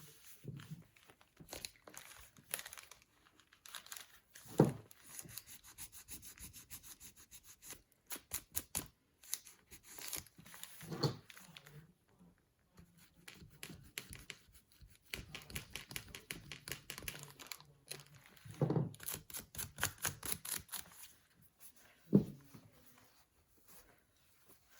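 Paper being handled and rubbed on a tabletop: runs of quick, repeated scratchy rubbing strokes and crinkling, with four soft thumps, the sharpest about four seconds in and near the end.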